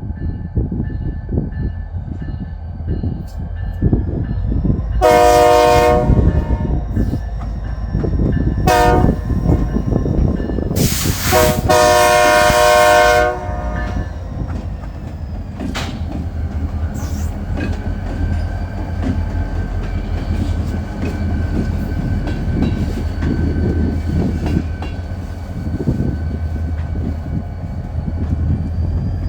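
BNSF diesel freight locomotives passing, sounding the air horn: a long blast about five seconds in, a short one near nine seconds and another long one around twelve seconds. Under the horn run the locomotives' low diesel rumble and the clatter of wheels on rail joints.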